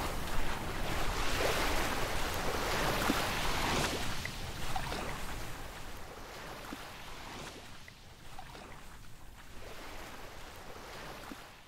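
Ocean surf washing onto a beach, a steady rush of waves that slowly fades out.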